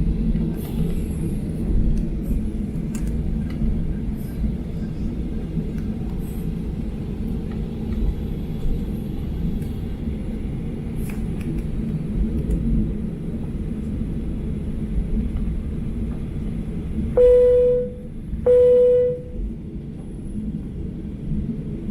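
Steady low rumble inside an airliner cabin on the ground before takeoff. Near the end, two loud, clear chime tones ring about a second apart: the cabin PA chime that comes before a crew announcement.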